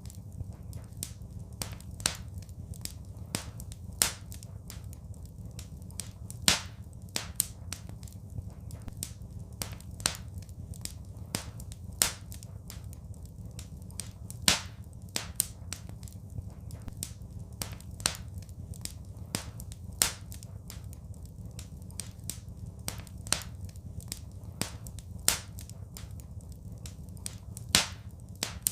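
Wood fire crackling: irregular small pops several times a second, with a louder sharp snap every few seconds, over a steady low rumble.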